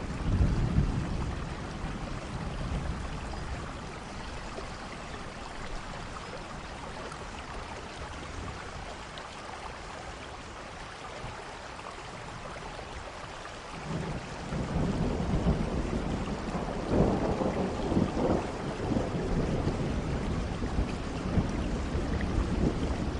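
Steady rain with thunder. A low rumble sounds in the first couple of seconds, then a longer rolling rumble builds from about two-thirds of the way through and peaks soon after.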